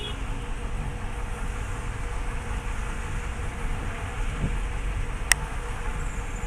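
Steady road and engine noise of a moving car, with one sharp click about five seconds in.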